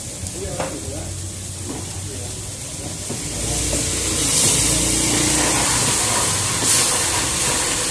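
Orange seblak spice paste frying in a wok as a spatula stirs it. The sizzling hiss grows louder about three seconds in and stays up.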